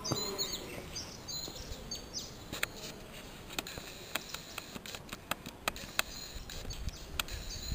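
Small birds chirping in the background: quick, repeated high chirps in the first couple of seconds and again near the end, with scattered sharp clicks in between.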